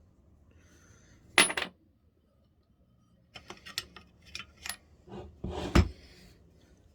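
Small metal parts being handled and set down, clinking and clattering: a sharp ringing clink about a second and a half in, a run of lighter taps, then a heavier clatter near the end.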